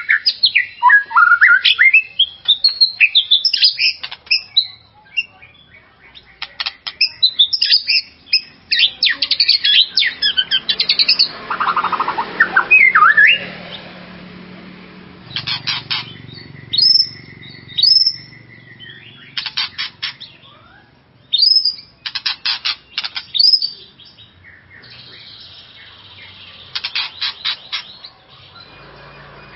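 White-rumped shama (murai batu) singing a full, excited song of the kind played as a lure to rouse other shamas. Varied whistled phrases and sweeping notes alternate with fast rattling runs of repeated notes, with short pauses between phrases.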